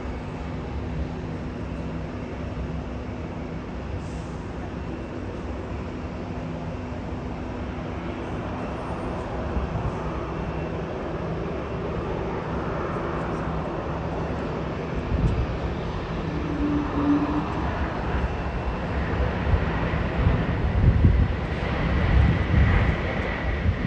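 Jet aircraft engine noise at an airport: a steady hum, then a heavier low rumble building with uneven surges and a high whine near the end.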